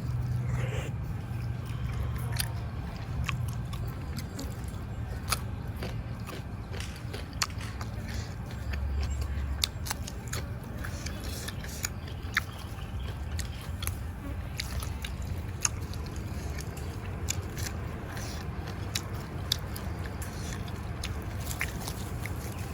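A man eating close to the microphone: chewing and biting food, with sharp clicks scattered throughout, over a steady low hum.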